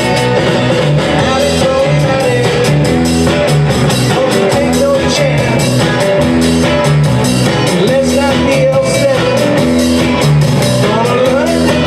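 Live rock and roll band playing, with electric guitar, a walking bass line and drums.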